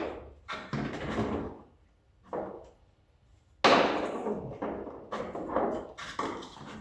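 A series of knocks and clatters from car parts being handled during a teardown, with the sharpest, loudest knock about three and a half seconds in, followed by more rattling.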